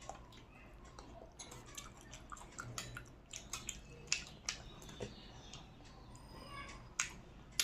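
Close-miked chewing and eating: irregular wet mouth clicks and smacks of food being chewed.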